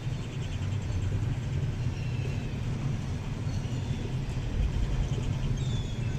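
Oslo SL18 tram running on line 15, a steady low rumble, with a few brief high squeaks over it.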